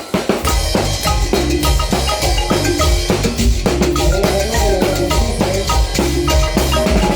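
Latin tropical dance-band music: drums and percussion keep a steady beat under bright pitched melodic notes.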